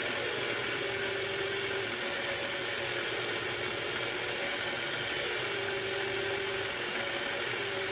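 Motor of a Willard's Tipper cue trimmer spinning the cue shaft with a steady whirring hum, while 500-grit sandpaper is held against the layered leather tip to shape it. The pitch sags slightly twice, for about a second each time.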